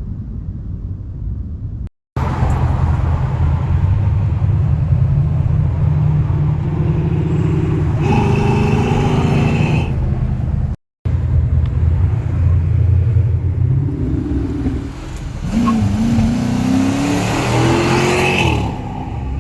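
2006 Dodge Charger R/T's 5.7 Hemi V8 running with its mufflers deleted, heard from outside the car: a loud low rumble that rises in pitch twice under hard throttle, once about 8 seconds in and again about 15 seconds in. The sound is broken by two sudden edit cuts.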